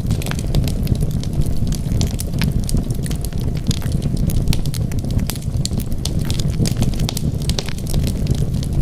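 Wood fire crackling: frequent sharp pops and snaps over a steady low rumble of the burning fire.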